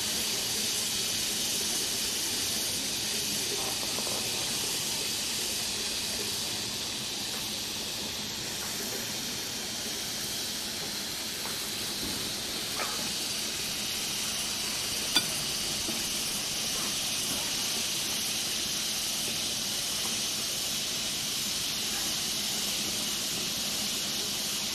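Chicken satay sizzling over a charcoal grill: a steady hiss, with a sharp click about fifteen seconds in.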